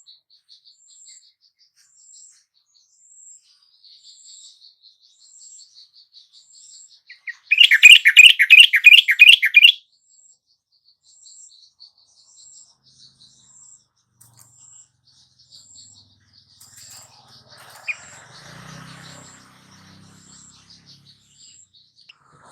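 Yellow-vented bulbul song: one loud, fast bubbling phrase of about two seconds, starting about seven and a half seconds in. Faint high chirps repeat about once a second throughout.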